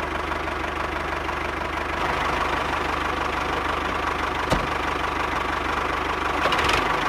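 A motor running steadily with a fast, even, engine-like rattle. There is one sharp click about four and a half seconds in, and the sound swells slightly near the end.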